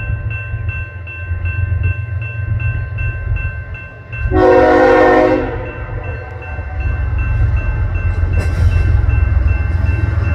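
Diesel freight locomotives rumbling by, with one horn blast of about a second and a half about four seconds in; a faint fast dinging runs underneath.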